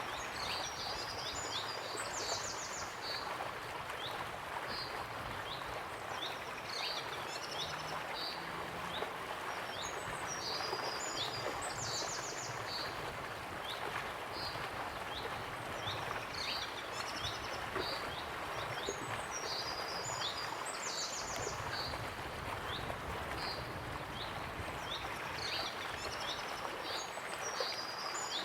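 Waterfall rushing steadily, with songbirds chirping and trilling over it; a similar burst of bird song comes back about every nine seconds.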